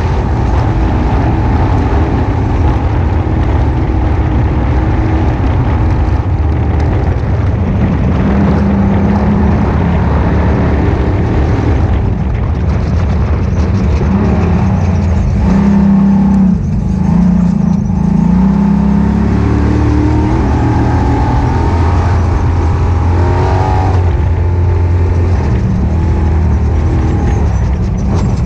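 Ultra4 off-road race car's engine running hard, its pitch rising and falling with the throttle.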